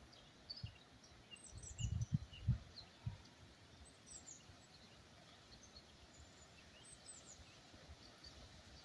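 Small birds singing with scattered short chirps and trills, over faint outdoor background noise. A few low thumps come around two to three seconds in.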